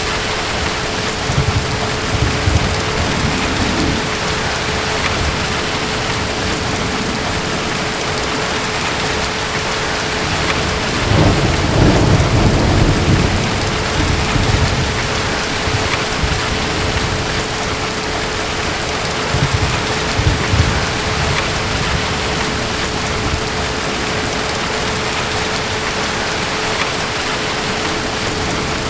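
Steady rain with distant thunder rumbling low. A few small rolls come near the start, a longer and louder roll follows from about eleven to fourteen seconds in, and another comes around twenty seconds.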